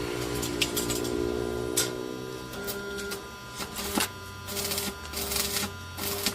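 Metal-workshop machinery: a motor's hum slowly falling in pitch over the first couple of seconds, as if winding down, then a steadier hum with scattered clicks and knocks and a burst of hiss about five seconds in.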